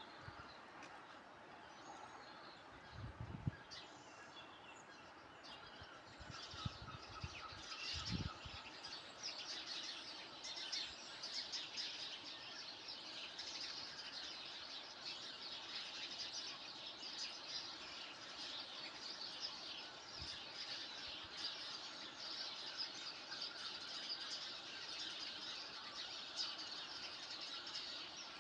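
Many small birds chirping and calling at once, a dense chorus that grows busier after about nine seconds. A few dull low knocks come about three and eight seconds in.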